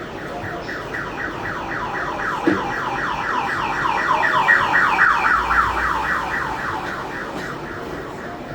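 An electronic alarm or siren yelping: a fast train of falling whoops, several a second, swelling to its loudest about halfway and then fading. A single short knock sounds about two and a half seconds in.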